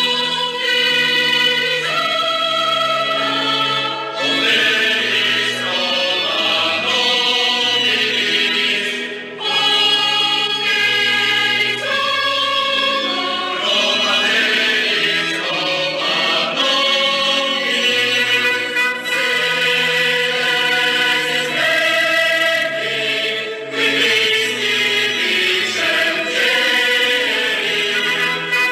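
A choir singing slow, held chords, laid as music over the footage.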